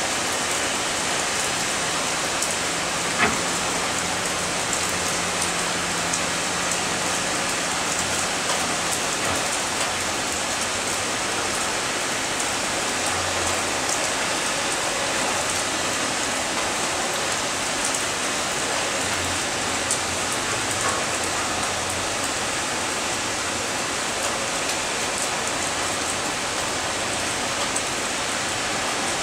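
Heavy typhoon rain pouring steadily, with drops ticking on a nearby surface and one sharper tap about three seconds in.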